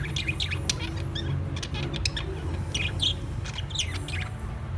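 Birds chirping: a busy run of short, high chirps and quick downward-sweeping calls, some in quick clusters, over a steady low hum.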